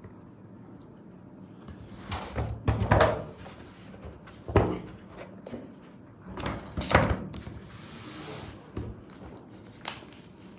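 Objects being handled and set down on a table, giving several knocks and clatters, with a short rustle about eight seconds in.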